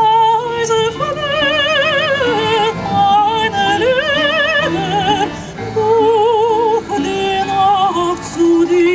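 Soprano singing in operatic style with wide vibrato on long held high notes, accompanied by plucked strings of a folk instrument ensemble.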